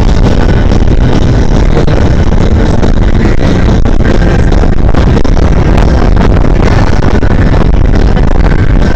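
Steady, loud rumble of wind and road noise on a body-worn camera's microphone while riding an e-bike.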